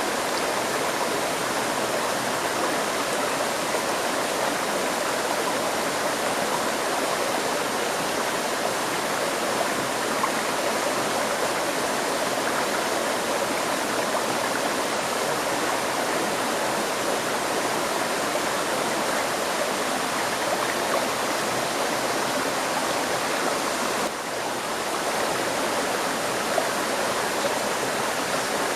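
A river stream flowing, a steady rushing of water that dips briefly about 24 seconds in before coming back.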